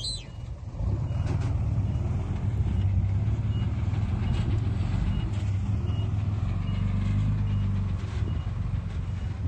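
Heavy construction machine's diesel engine running steadily, growing louder about a second in, with a faint reversing alarm beeping at an even pace through the middle.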